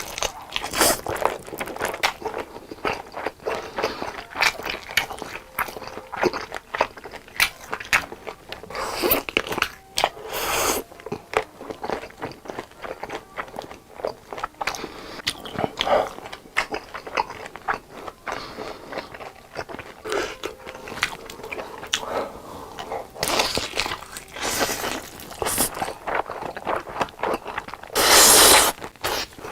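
Close-miked mukbang eating: a person taking big bites, crunching and chewing with many rapid irregular crackles, broken by a few louder bursts of about a second.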